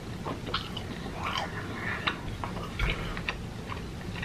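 Close-miked chewing of a mouthful of food, with irregular small wet mouth clicks.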